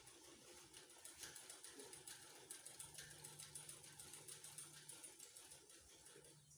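Near silence: faint crackling and rustling, with a low steady hum for a couple of seconds in the middle.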